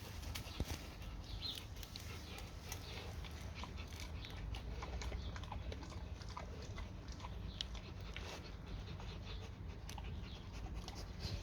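A dog chewing and crunching a dental chew treat, with irregular wet clicks and crunches of its teeth.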